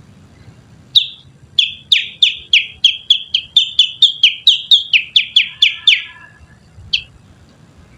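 A person whistling through the little finger to imitate a kutilang sutra (bulbul) call, used as a lure call: a rapid run of about twenty sharp, high whistled notes, each sliding downward, roughly four a second, then a single note about a second later.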